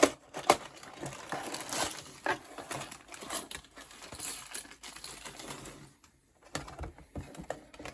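A small building-block set being unpacked by hand: the cardboard box and plastic parts bags rustle and click. It opens with two sharp clicks, has a brief lull about six seconds in, then more clicks.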